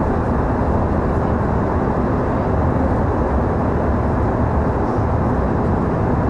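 Passenger airliner cabin in flight: a steady, even rush of engine and airflow noise, heaviest in the low end.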